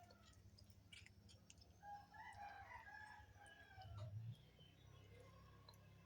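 A rooster crowing faintly in the distance, one crow lasting about two seconds. A steady low hum runs underneath, with a brief low thump near the end of the crow.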